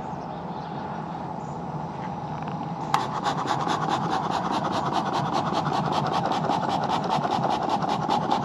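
A steady low hum, then from about three seconds in a fast, even scraping or rubbing, about six strokes a second.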